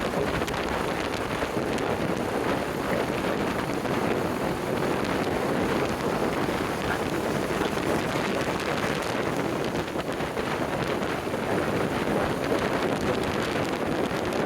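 Steady wind rush buffeting the microphone on a moving motorcycle, with the bike's road noise under it.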